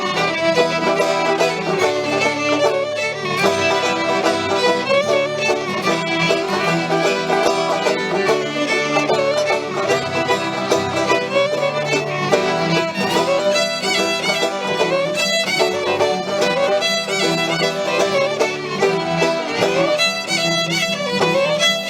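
Live acoustic string band playing a fast fiddle tune, the fiddle carrying the melody over strummed and picked string accompaniment.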